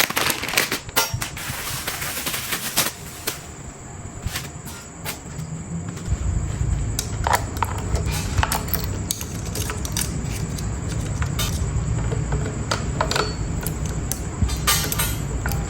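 Sharp metallic clicks and taps, as of small metal parts being handled. About six seconds in, a steady low motor drone starts and keeps running under further clicks.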